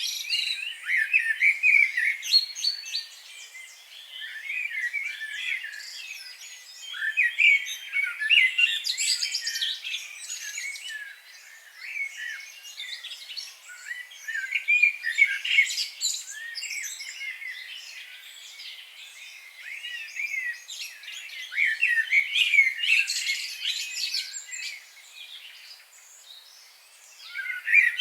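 Several songbirds singing and chirping together, quick high warbling phrases overlapping, swelling in louder bouts every few seconds and easing off between.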